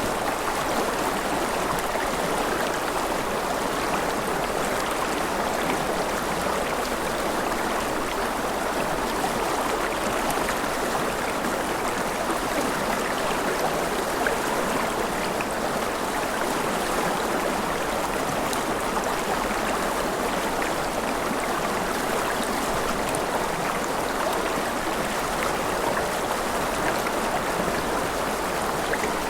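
River flowing steadily over rocks: an even rushing noise with no breaks, fine splashes and trickles within it.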